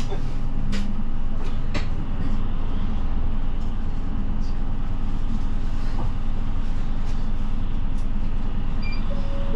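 Bus engine and drivetrain droning steadily, heard inside the passenger cabin as the bus pulls away from a stop. A few sharp clicks or rattles come within the first two seconds.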